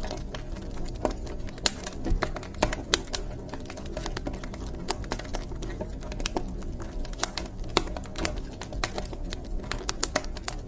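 Wood fire crackling in a fireplace: irregular snaps and pops, a few louder than the rest, over a low steady rumble.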